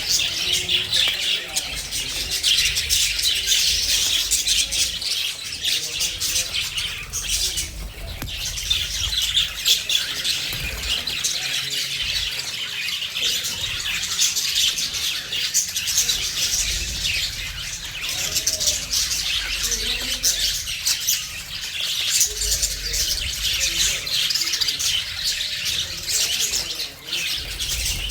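A flock of budgerigars chattering and chirping without pause, many quick high notes overlapping.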